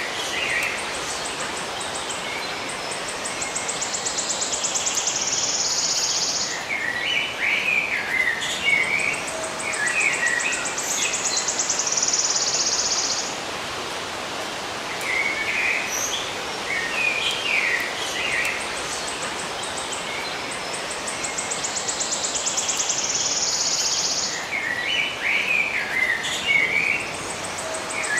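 Small birds chirping in short bursts, and a high, rapidly pulsing insect trill that lasts several seconds and then cuts off. Both come back about every ten seconds over a steady hiss of natural ambience.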